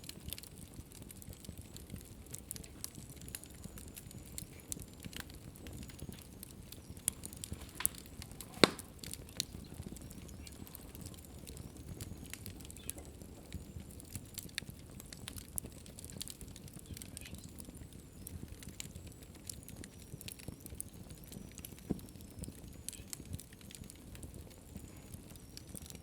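Wood fire in a fireplace crackling steadily, with many small pops over a low rumble of flame and one louder, sharper pop about a third of the way through.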